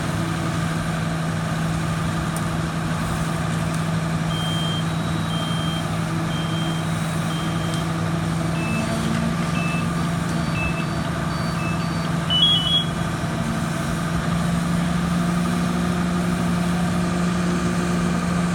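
Fire truck engine running steadily, with a reversing alarm beeping about once a second for several seconds. Shorter beeps at another pitch follow, then a quick cluster of beeps.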